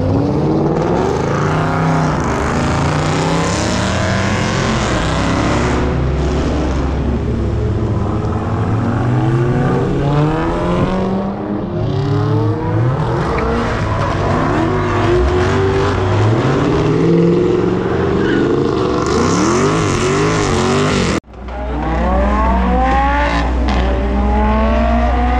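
Cars accelerating hard as they drive away, their engines revving, with the pitch climbing and dropping over and over. The sound breaks off abruptly about 21 seconds in, then the revving starts again.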